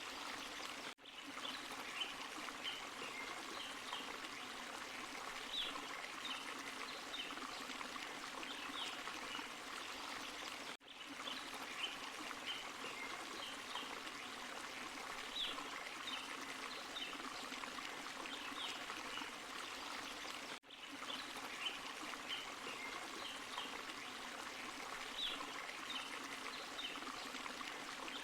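Small forest waterfall and stream running steadily, with short high trickles or chirps on top. The sound drops out for an instant about every ten seconds and then repeats.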